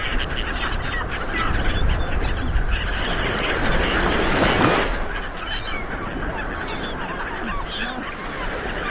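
Ocean surf rolling onto a shore, a continuous wash of breaking water that swells and then eases off about halfway through. Short bird calls are scattered through it.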